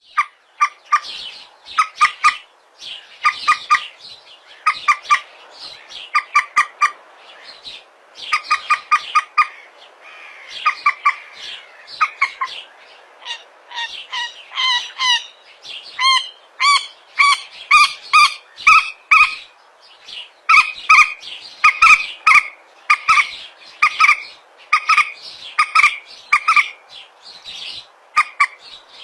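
Calls of the bird known in Indonesia as peruk or mandar batu, a member of the rail family: quick runs of two to four sharp, pitched notes, repeated over and over with short gaps between the runs.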